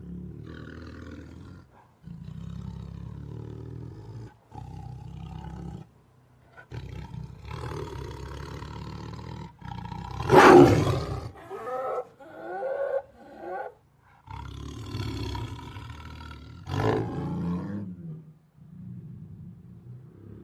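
Tiger calling: a run of low calls a second or two long with short pauses between them, a loud roar about ten seconds in and another shortly before the end.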